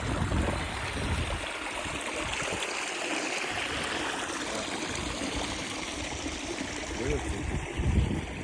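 Running water, a steady rushing like a small stream, with wind buffeting the microphone in the first second and again near the end.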